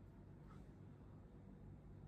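Near silence: faint steady low hum and room tone.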